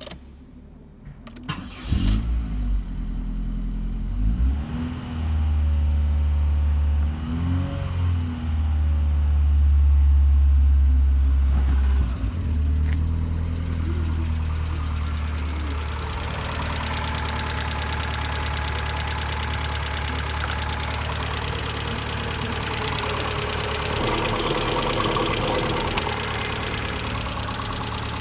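Opel X16XEL 1.6-litre 16-valve four-cylinder petrol engine starting about two seconds in, revving up and back down a few times, then settling to a steady idle.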